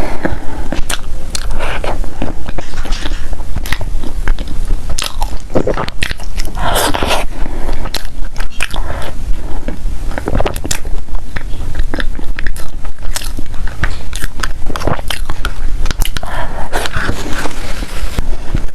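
A person biting and chewing food close to the microphone, with crunches and many sharp mouth clicks throughout.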